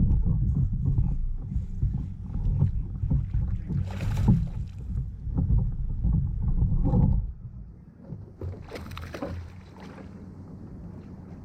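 Movement sounds aboard a fishing kayak on the water: a low rumble that drops away about seven seconds in, with short rushing bursts around four and nine seconds.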